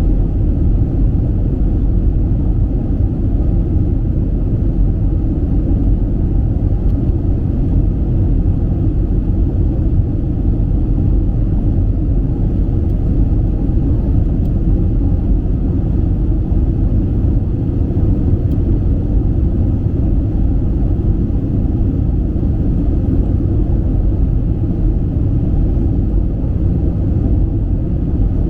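Airbus A320 cabin noise in flight: the steady low rumble of the engines and rushing air, heard inside the cabin, with a faint steady hum running through it.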